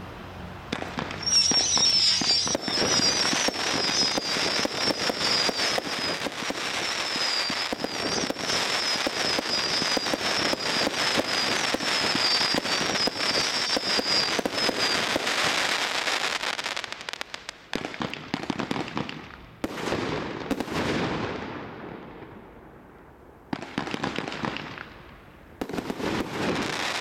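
A Flip Mode 38-shot fan-pattern compound firework barrage firing. Rapid shots and bursts with dense crackling start about a second in, with a shrill wavering tone running through the first half. In the last third the firing breaks into separate volleys with short lulls between them.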